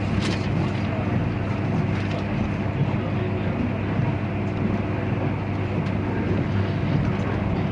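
Steady running noise inside the cabin of a 485 series electric train at speed, a constant rumble from wheels on the rails with a low hum underneath.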